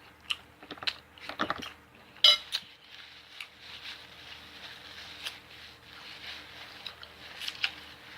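Close-miked chewing and mouth sounds of someone eating, with several sharp clicks in the first couple of seconds, the loudest about two seconds in, then softer chewing with a few scattered ticks.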